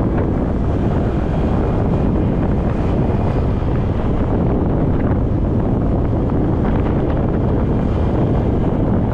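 Wind buffeting the microphone of an action camera on a moving motorcycle: a loud, steady rush concentrated in the low end.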